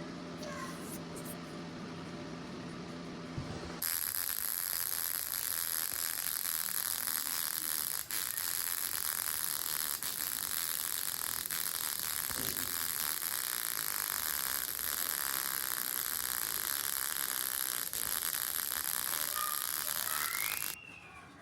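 Electric arc welding: a low hum, then the arc strikes about four seconds in and crackles and sizzles evenly with a steady high-pitched whine for about seventeen seconds before cutting off suddenly near the end.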